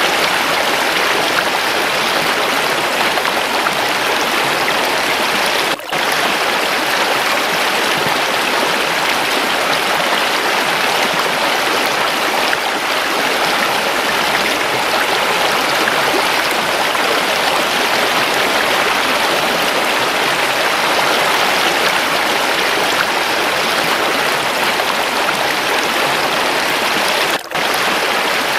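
Waterfall with running water: a steady, even rush of water. It drops out for a split second twice, about six seconds in and near the end.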